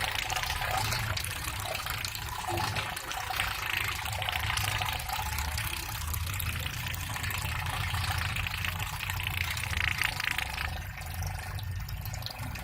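Water churning and splashing steadily, with the low hum of a small DC motor: a homemade soda-can toy speed boat's propeller running in water.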